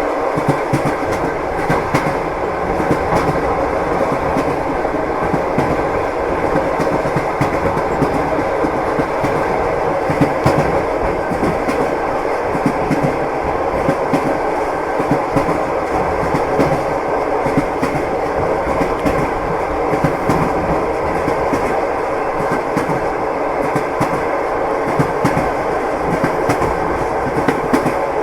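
Passenger train running steadily, heard from inside the carriage: a continuous rumble of the wheels on the rails with scattered faint clicks of the wheels over rail joints.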